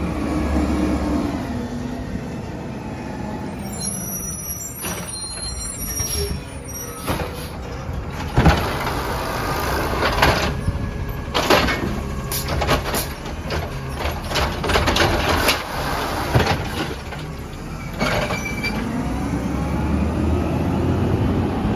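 Peterbilt 320 garbage truck working: its engine runs, drops in pitch early on and revs up again near the end. In the middle comes a string of sharp bangs and clatters from the truck's handling of the trash, with a brief high squeal about four to six seconds in.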